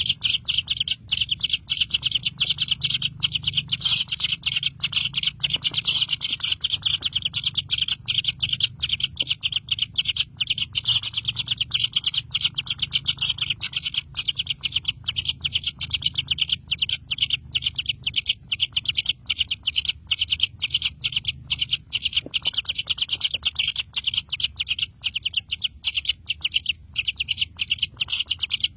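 Birds chirping in a dense, unbroken stream of rapid high chirps, many a second, at a steady level.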